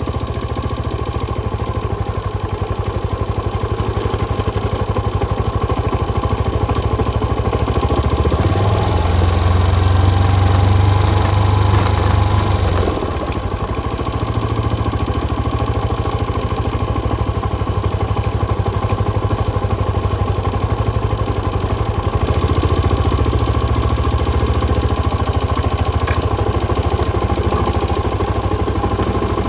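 Benelli BN125's single-cylinder four-stroke engine running through its original exhaust with the dB killer fitted. The steady note grows louder about eight seconds in, drops back suddenly around thirteen seconds, and rises again near twenty-two seconds.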